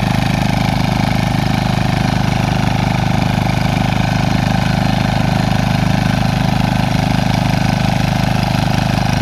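Small diesel engine of a mini walking tiller running steadily at working speed, with an even, rapid low throb.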